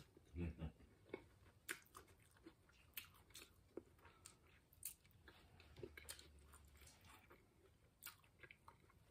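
Faint chewing and mouth sounds of someone eating a fried vegetable spring roll, with scattered small crunchy clicks.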